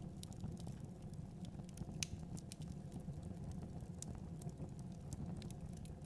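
Fire crackling in a fireplace: a low, steady rumble of flame with scattered sharp pops and snaps, the loudest about two seconds in.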